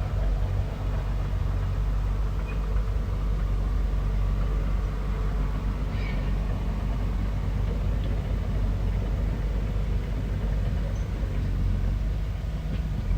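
Bulldozer's diesel engine running steadily, a low even drone.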